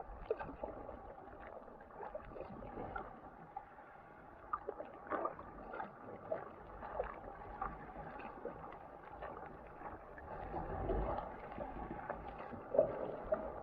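Sea kayak on the water: paddle blades dipping and splashing at irregular intervals, with water lapping and gurgling against the hull.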